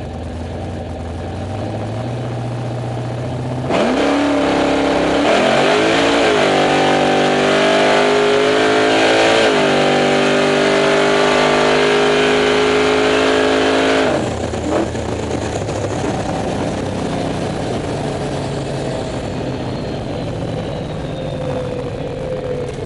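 Supercharged Holden HQ's engine, heard from inside the car. It runs low and steady, then about four seconds in it launches at full throttle. The pitch climbs and drops back at each gear change for about ten seconds, then the driver lifts off and it settles to a lower note as the car coasts.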